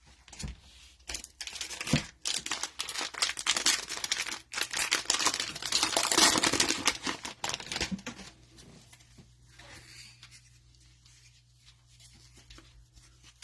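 Plastic cellophane wrapper of a trading-card cello pack being torn open and crinkled, a dense crackling for about seven seconds that then falls to faint handling noises.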